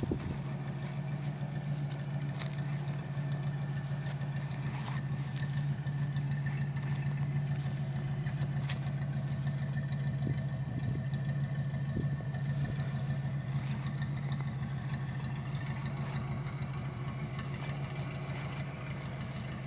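1954 Oldsmobile Super 88's 324 cubic-inch V8 idling steadily with an even, low purr.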